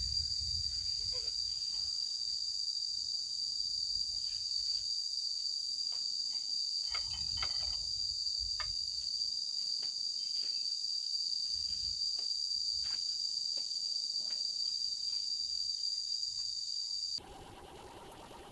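Steady, high-pitched insect chorus of crickets or cicadas, with a few faint clicks underneath. It cuts off abruptly near the end.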